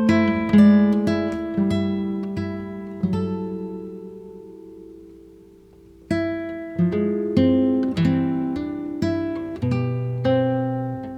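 Background music: acoustic guitar picking single notes and chords. Each note rings and dies away. A chord fades out for about three seconds in the middle before the playing picks up again.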